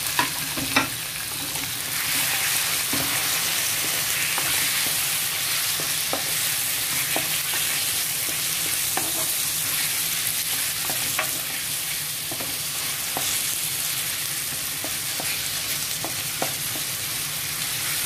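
Raw chicken pieces sizzling steadily in hot olive oil with garlic and onion, stirred with a wooden spoon that knocks and scrapes against the pan now and then, with two sharper knocks right at the start.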